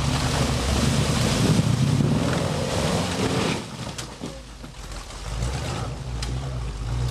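Off-road 4x4 truck engine working hard under a loud rushing noise. Both drop off suddenly about three and a half seconds in, leaving a quieter engine and a few clicks.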